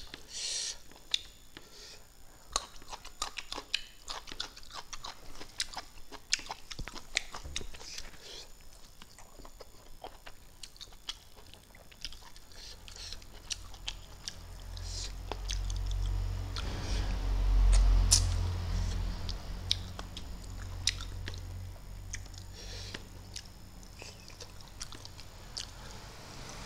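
A person eating fish with his fingers: chewing, lip-smacking and small wet mouth clicks, repeated irregularly. About halfway through, a low rumble swells, peaks and fades again.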